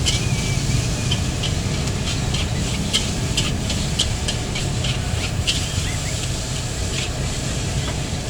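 Metal spatula scraping and clinking against a wok while fried rice is stir-fried, in short irregular strokes over a steady low rumble and sizzle.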